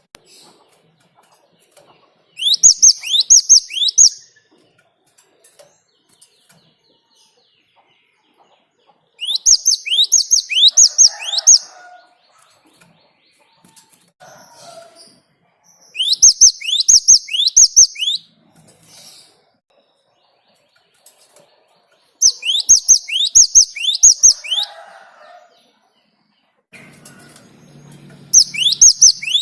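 Cinereous tit (gelatik batu) singing in loud bouts of rapid, steeply falling whistled notes, five bouts about six seconds apart. Fainter chirps come between the bouts.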